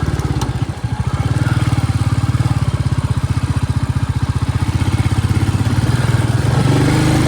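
Royal Enfield Bullet single-cylinder engine running under way with an even, rapid low pulse; the level dips briefly just under a second in, then picks back up.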